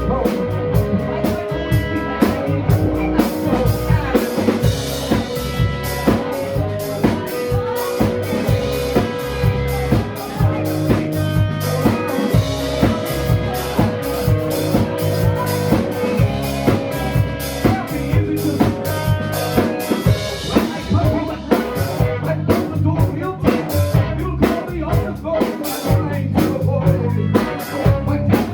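Live band music: a drum kit keeping a steady beat under guitar and bass, with no clear vocal line.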